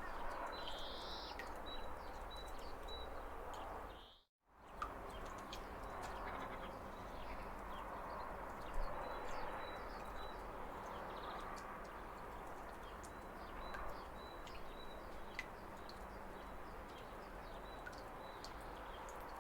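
Steady rush of a waterfall, with small birds chirping over it in short high notes throughout. The sound cuts out completely for a split second about four seconds in.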